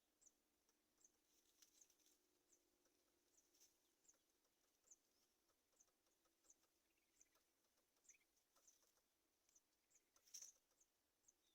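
Faint, high-pitched animal chirps repeating about twice a second, with one sharper click near the end.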